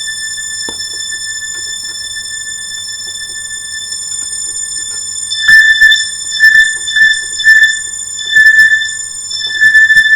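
Roland M-DC1 sound module playing a thin, high synth tone through its high-pass filter. The tone holds steady, then from about halfway it swells and pulses in repeated notes, about two a second.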